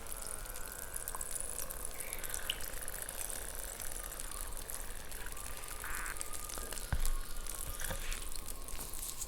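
Chalk balls fizzing in water, a dense crackle of tiny popping bubbles, with one louder click about seven seconds in.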